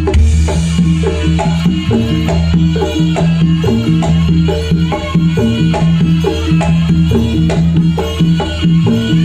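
Jaranan ensemble music: percussion and pitched struck notes playing a steady, repeating rhythm over a continuous low drone.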